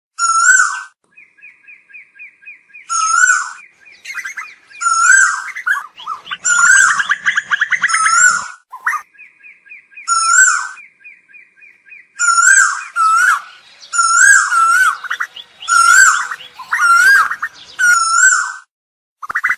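Asian koels calling: loud, short whistled notes with a hooked pitch, repeated over and over, broken by long fast trilled chatters twice, with calls overlapping densely for a few seconds in the middle.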